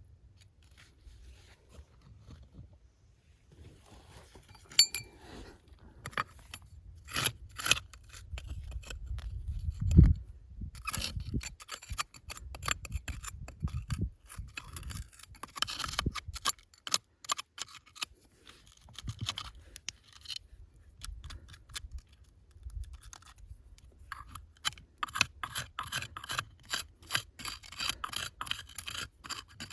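Hard objects handled, knocked and scraped together in a run of sharp clicks and scrapes. There is a brief metallic ring about five seconds in and one dull heavy knock about ten seconds in. The clicks come thick and fast near the end.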